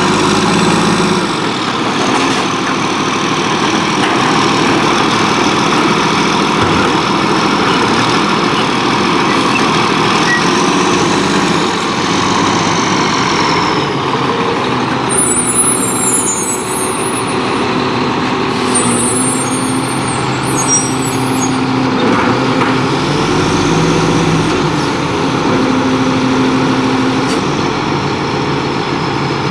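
Volvo WXLL garbage truck with a Labrie Expert 2000 body running at work, its engine and hydraulics drawing a whine that rises and falls twice. Short high squeals come twice about halfway through.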